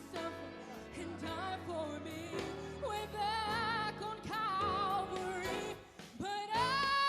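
Worship music: a solo singer ad-libbing wordless, ornamented vocal runs with vibrato over sustained instrumental accompaniment. Near the end the voice slides up and holds a long high note.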